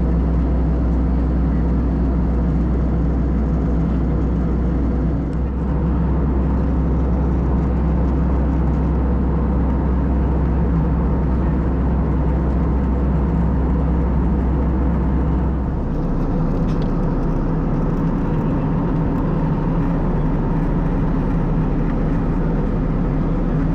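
Steady airliner cabin noise of an Airbus A320 in flight, engine and airflow roar heard from inside the cabin. The deep rumble lessens about 16 seconds in.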